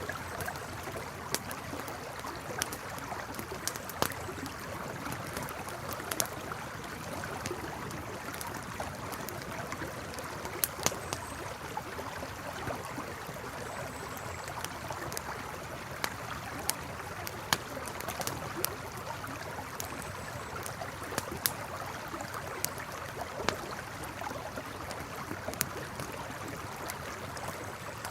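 River water flowing and gurgling steadily, with a campfire crackling over it in scattered sharp pops and snaps.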